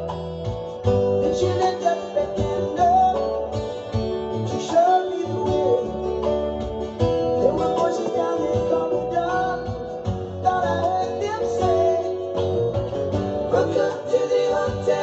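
Acoustic guitar music: strummed and picked chords under a gliding melody line.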